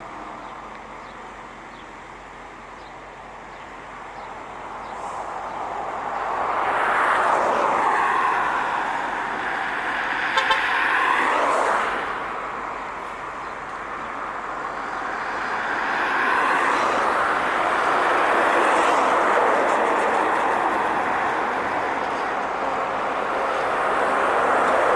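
Heavy trucks passing on a highway, tyre and engine noise swelling and fading twice as each goes by. A horn sounds briefly in the middle of the first pass.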